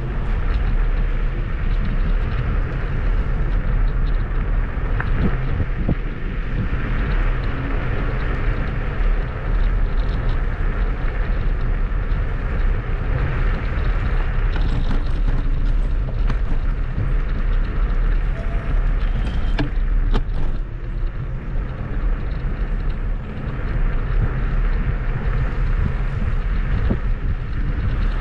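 Steady wind buffeting on the microphone with rolling tyre rumble while riding a Kugoo G2 Max electric scooter, with a few short clicks and knocks from the ride.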